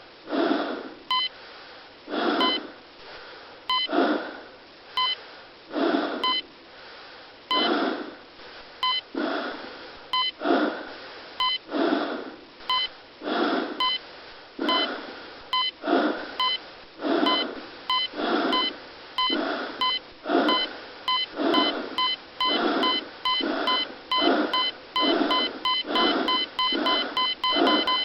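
Hospital heart monitor beeping, with heavy, laboured breathing in and out. The beeps start at about one a second and speed up steadily until they come in a rapid run near the end, and the breaths quicken with them: a patient's heart racing toward cardiac arrest.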